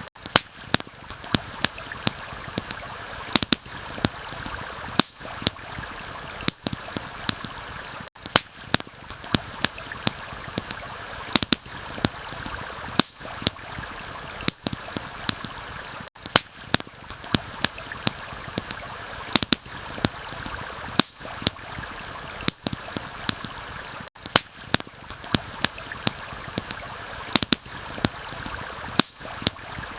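Steady rush of flowing water from a stream and rain, with crackling campfire pops: sharp, irregular snaps a few times a second.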